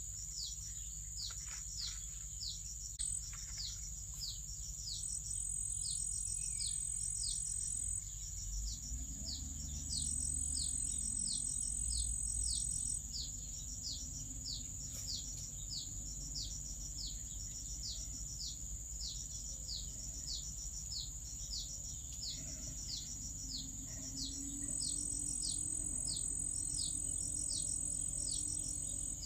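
A steady, high insect drone with a regular series of short, high, falling chirps, about two a second, and a low rumble underneath.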